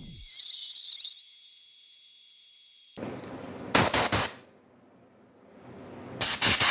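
A swishing high-pitched sound effect, then after a cut a series of short, sharp blasts of air: a quick cluster of three or four, a pause, then about six more in rapid succession near the end, from the homemade refrigerator-compressor air compressor's outlet being opened and closed.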